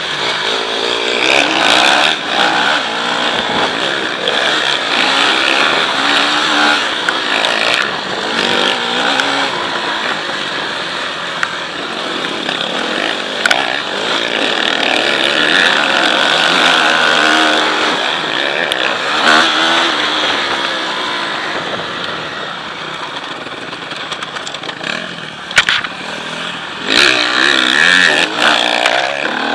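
Motocross bike engine revving up and down continuously as it is ridden, its pitch rising and falling with the throttle, over a steady rushing noise. There are a few sharp clicks near the end.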